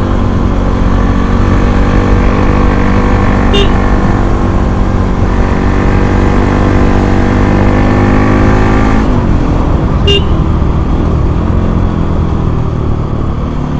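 Bajaj Pulsar NS200's single-cylinder engine pulling hard under acceleration, its pitch climbing steadily for about nine seconds, then dropping sharply and running on at lower revs.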